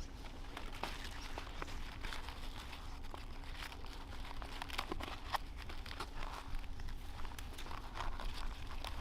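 Irregular crinkling and crackling with scattered small clicks, as of material being handled.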